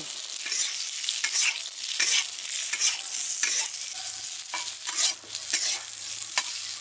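Boiled potato cubes sizzling as they fry in spiced oil in an iron kadhai, while a flat metal spatula scrapes and turns them against the pan in repeated strokes.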